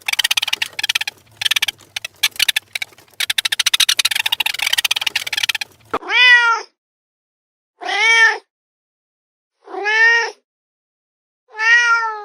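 A fast, dense rattling chatter of clicks for about the first five and a half seconds. Then a domestic cat meows four times, about two seconds apart, each meow rising then falling in pitch.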